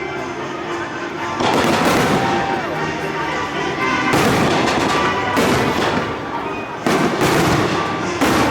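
Fireworks display: aerial shells bursting in a steady run of loud bangs, about five sharp ones over the stretch, with dense crackling and rumble between them.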